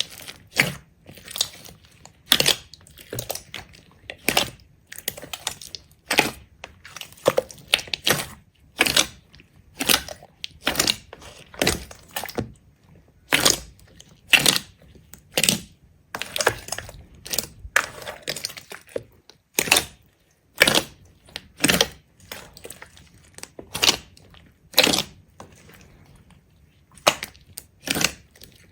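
A series of sharp cracks and crunches, about one or two a second with short pauses between runs, as of something being repeatedly broken, crushed or cut.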